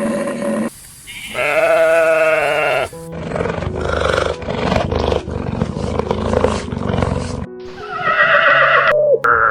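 Several short animal calls cut one after another with abrupt breaks between them, together with music.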